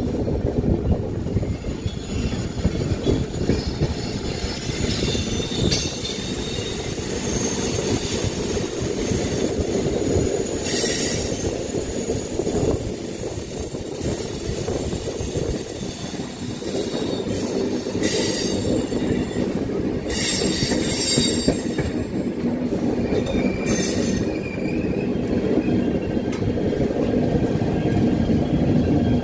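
Garib Rath Express train running along the track: a steady, loud rumble of wheels on rails, with brief high-pitched wheel screeches several times through the middle.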